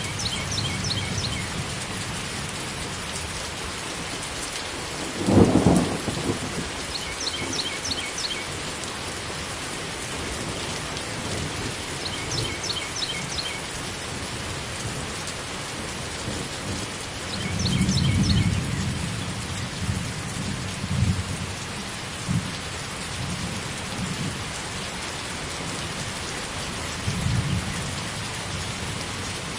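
Steady rain in a thunderstorm, with a sharp thunderclap about five seconds in, a longer rumble of thunder around eighteen seconds, and a few smaller rolls after it.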